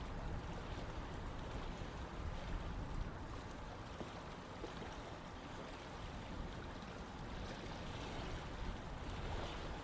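Running water flowing steadily, an even rushing sound with a low rumble beneath it.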